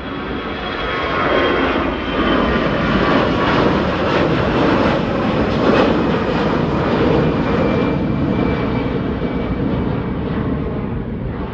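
Airliner engines at take-off power as the plane departs and passes. The roar grows over the first second or two, stays loud, then eases a little near the end, with a faint high whine slowly falling in pitch.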